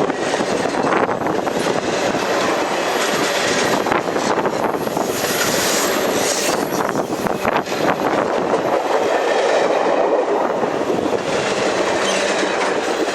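Reading & Northern 2102's steam-hauled train rolling past: a steady rumble of wheels on the rails, broken by scattered clicks.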